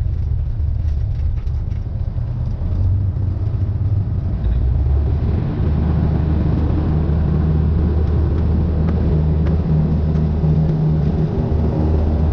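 Cessna 172N's four-cylinder Lycoming piston engine running steadily, growing a little louder and fuller from about five seconds in.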